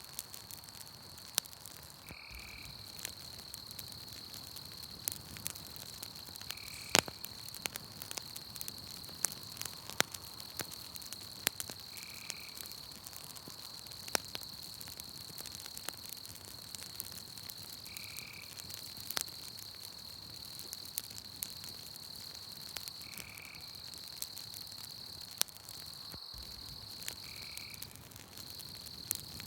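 Campfire crackling with scattered sharp pops, over a steady high trill of night insects. A short, high call repeats about every five seconds.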